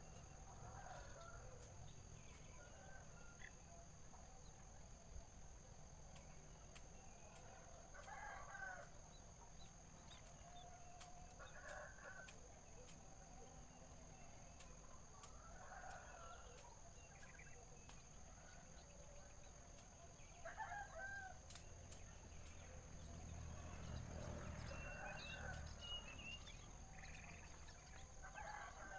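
Faint bird calls repeating every few seconds, some short, some longer and broken, over a steady high-pitched drone and low rumble.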